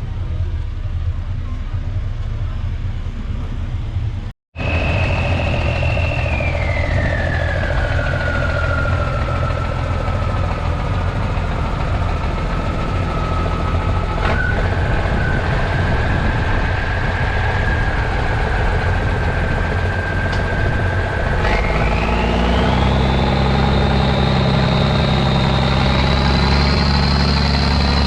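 An old vehicle's engine idling steadily, with a whine above it that slides down in pitch, holds, and then climbs again about three quarters of the way through as the engine note grows fuller. The sound cuts out for a split second about four seconds in.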